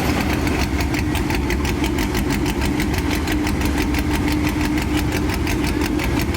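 Car engine idling steadily, with an even, rapid pulsing beat over a low hum.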